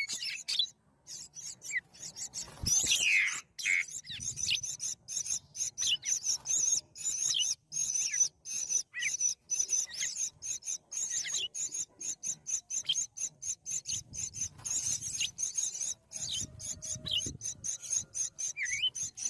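Birds calling: a rapid, choppy rasping chatter, with short falling chirps mixed in.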